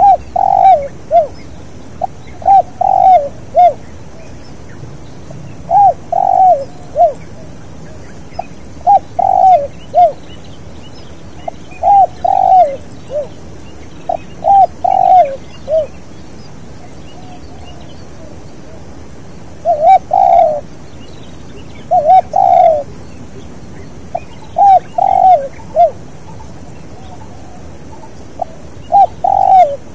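Spotted dove (tekukur) cooing: short phrases of three or four coos repeated about every two to three seconds, with a pause of a few seconds in the middle.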